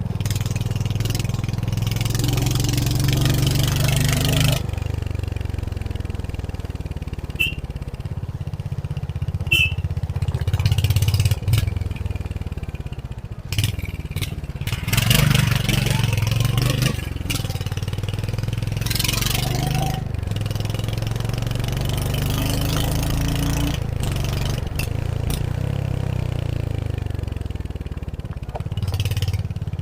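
Royal Enfield Hunter 350's single-cylinder engine running under way, its note rising and falling with throttle and gear changes. Several bursts of rushing wind noise come and go over it.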